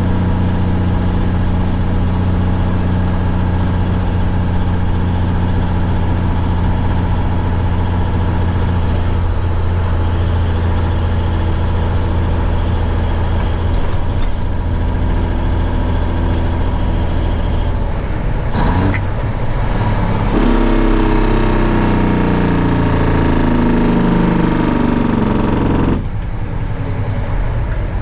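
1971 Peterbilt 359's diesel engine running steadily as the truck drives. About 18 s in there is a break with a few clicks, and the engine pitch then shifts for several seconds before changing again near the end, as with gear changes under way.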